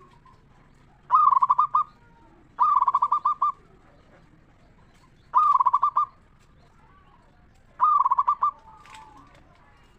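Zebra dove (perkutut) singing: four short cooing phrases, each a quick run of rolling notes lasting under a second, about two to three seconds apart. The voice is clear and ringing, the kind keepers call 'ngeristal' (crystal-like). Fainter calls follow the last phrase.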